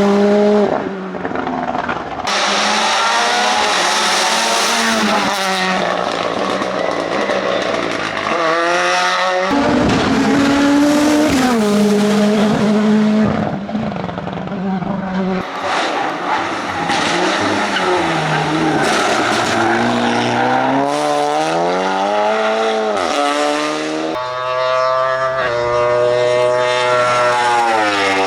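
Racing car engines at full throttle on a hillclimb, revving up and dropping back again and again through the gears, in a sequence of different cars that changes abruptly several times.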